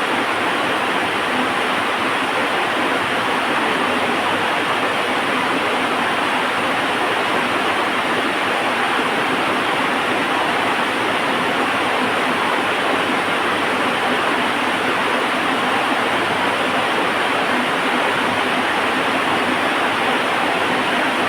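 Heavy rain falling as a steady, dense hiss that does not change.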